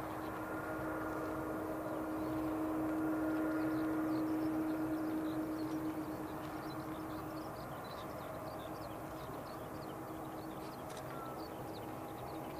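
Boeing 777 airliner's jet engines running with a steady hum and rush, growing a little louder a few seconds in and then easing off.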